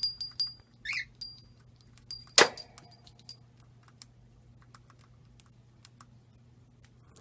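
A run of small clicks and taps, several with short, high metallic pings, and one sharper snap midway. A brief falling chirp comes about a second in.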